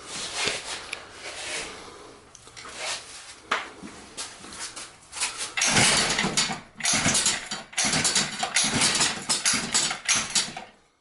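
A 50cc two-stroke engine being pull-started by its recoil starter cord, yanked over and over and turning over without catching; the pulls come louder and closer together from about halfway through.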